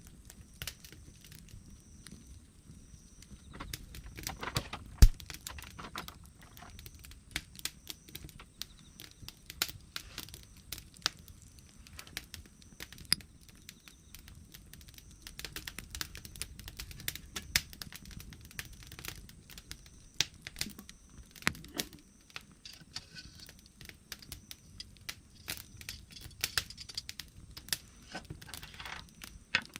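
Wood fire crackling, with irregular sharp pops and snaps over a low rush of burning, one pop about five seconds in louder than the rest.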